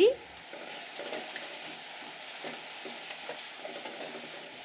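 Chopped onion with grated ginger and garlic sizzling steadily in hot coconut oil in an earthenware clay pot, stirred with a wooden spoon that gives a few faint scrapes.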